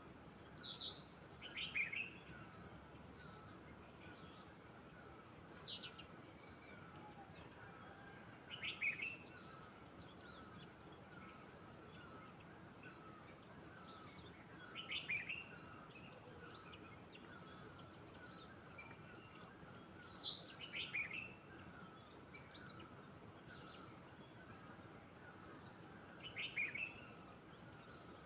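Birds calling: a high, quickly falling call, mostly given twice in quick succession, repeated every five or six seconds. Beneath it runs a faint, steady, rapid pulsing.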